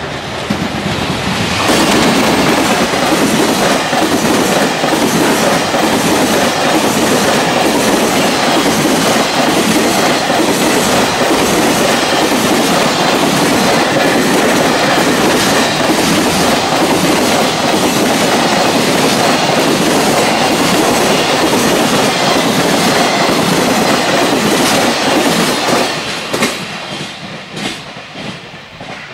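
A long freight train passing at high speed, its wheels clacking over the rail joints in a steady rhythm. The noise builds up in the first two seconds and fades over the last few as the final wagons clatter past.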